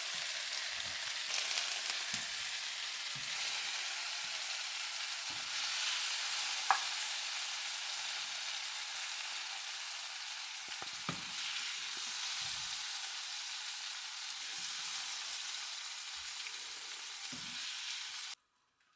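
Chicken wings in XO sauce sizzling steadily in a hot pan with the heat just turned off, with occasional light knocks and one sharp click. The sizzle cuts off abruptly near the end.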